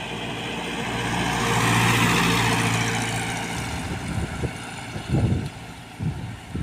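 A heavy diesel truck passing by: engine and tyre noise swell to a peak about two seconds in and then fade, followed by a few short low rumbles near the end.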